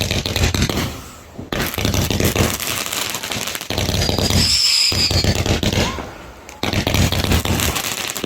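Fireworks going off: dense, rapid crackling and bangs, with a high whistle about four and a half seconds in. The crackle drops briefly about a second in and again near six seconds.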